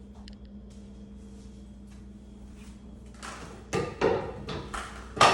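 A low steady hum, then a cluster of knocks and thuds in the last two seconds, the loudest one near the end.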